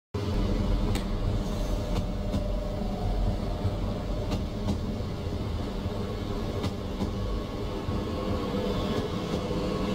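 Stadler SMILE (SBB Giruno, RABe 501) high-speed electric train rolling slowly past: a steady low rumble with a faint hum and a few sharp clicks.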